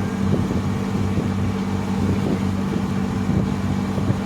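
Motorboat engine running steadily while the boat cruises, a constant low drone with an even hum.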